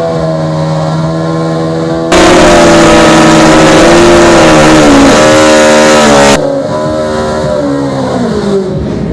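Drag-racing motorcycle engines held at high revs under hard acceleration. About two seconds in, the sound jumps suddenly much louder for about four seconds, then drops back, and the engine pitch falls near the end as the bikes ease off.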